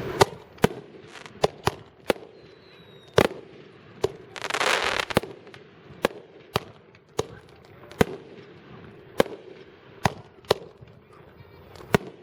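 Consumer fireworks going off: a long run of sharp bangs, one every half second to a second, with a hissing rush lasting about a second, about four seconds in.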